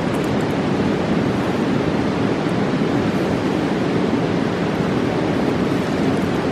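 Mountain river rushing past, a steady, even roar of water.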